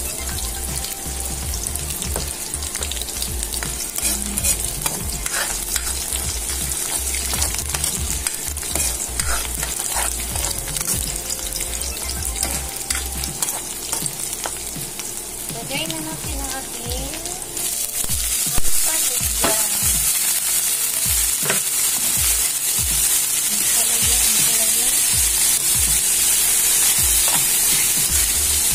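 Chopped garlic and onion sizzling in hot oil in a wok, with a metal spatula scraping and clicking against the pan as it stirs. About two-thirds through there is a sudden clatter and the sizzle grows louder, and by the end sliced bitter melon is frying in the wok as well.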